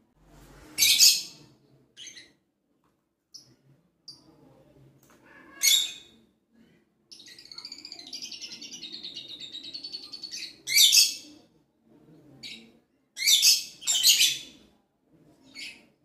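Pet birds calling: short, loud, high-pitched calls about a second in, near six seconds, near eleven seconds and twice around fourteen seconds, with a fast chattering warble from about seven to ten seconds.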